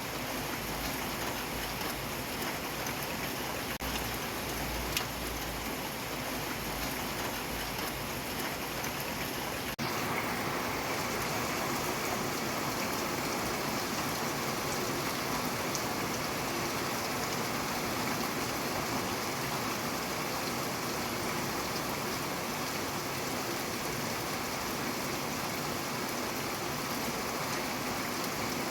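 Steady rainfall, an even hiss of drops with a few sharper single drops in the first seconds. A low rumble underneath stops about ten seconds in, and from then on the rain is slightly louder.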